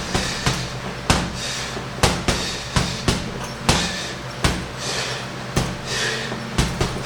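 Punches landing on a hanging heavy bag: sharp thuds about one or two a second at an uneven pace, some in quick pairs.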